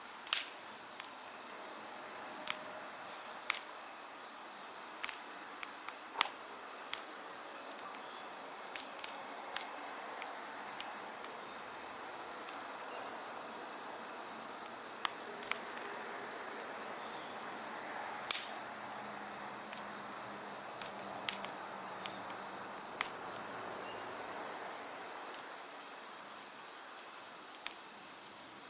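Wood fire burning in a steel fire stand, crackling with sharp pops at irregular moments. Behind it, insects chirp steadily in a high, evenly pulsing trill.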